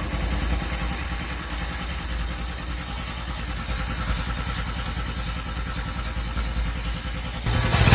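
Bajaj Pulsar NS 200's single-cylinder engine idling steadily through its exhaust, growing louder near the end.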